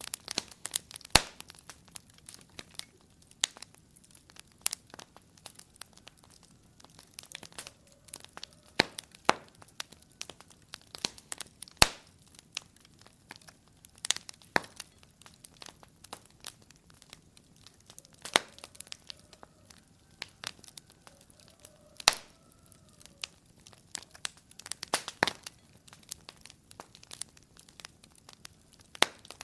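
Wood fire crackling in a fireplace: irregular sharp pops and snaps from the burning logs, some clustered, with a few much louder cracks scattered through.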